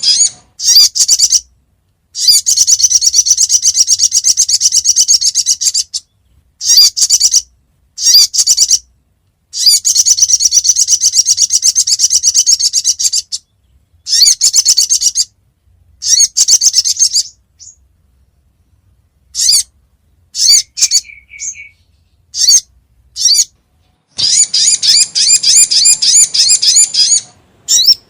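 Sogon (sogok ontong) bird song played as a lure call: long, rapid, high-pitched trills lasting up to about four seconds, broken by short pauses. A run of short separate chirps comes in about two-thirds of the way through.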